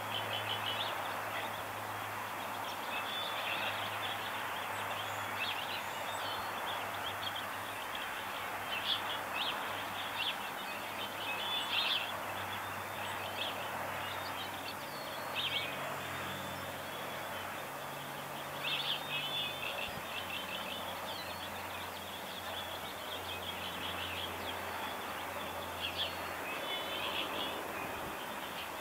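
Small birds chirping, short high calls coming in clusters every few seconds, over a steady outdoor hiss and a faint low hum.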